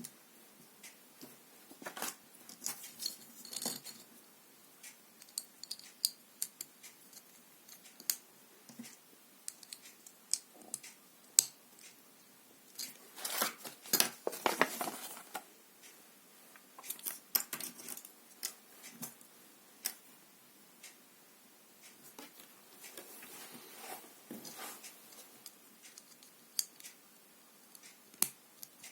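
Plastic LEGO bricks clicking and rattling as they are handled and snapped together by hand: scattered sharp clicks with short bursts of rattling, the longest about halfway through.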